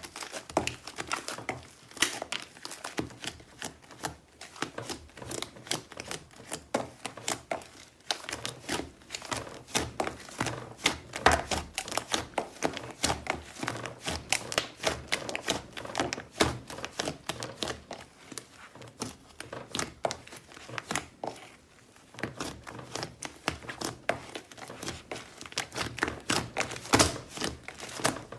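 Slime being worked by hand, making dense, irregular crackling clicks and pops.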